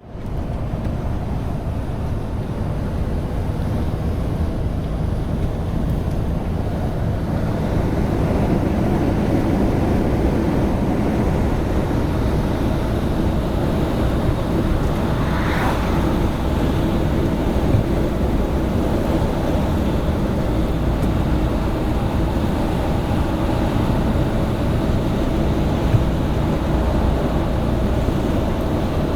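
Truck driving on the road: a steady low engine and road rumble, with a brief higher-pitched swell about halfway through.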